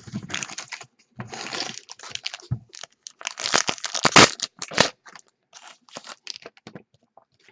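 Trading card packaging being crinkled and torn: irregular crinkling and tearing rustles, loudest around the middle.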